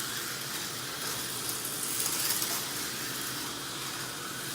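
Tyco HO slot cars running on the track, their small electric motors giving a steady high hiss that swells slightly about halfway through.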